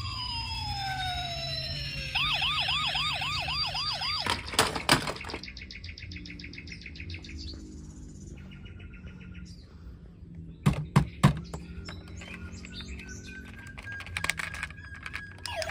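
Electronic toy siren sounds: falling synthesized tones, then a fast yelping siren warbling about four times a second. Sharp plastic clicks follow around five seconds in and again near the middle, and a steady high tone sounds near the end.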